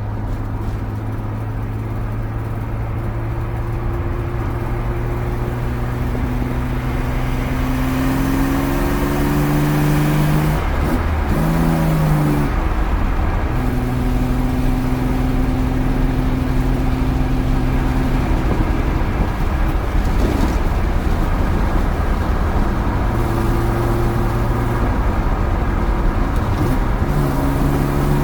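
BMW E36's swapped M50B25 straight-six running through a full exhaust while the car is driven. It holds a steady drone, and the note dips and picks up again a few times as the revs change, most clearly about eleven seconds in.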